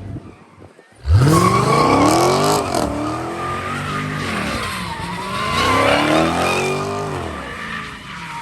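A car engine revving hard, its pitch climbing and dropping several times, with tyres squealing as the car spins its wheels; it starts suddenly about a second in.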